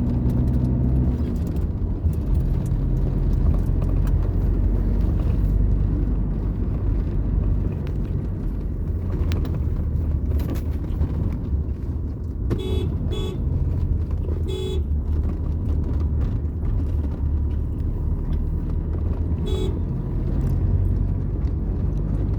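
Steady low rumble of a car's engine and tyres on the road, with a car horn tooting in short beeps: three close together about halfway through and one more near the end.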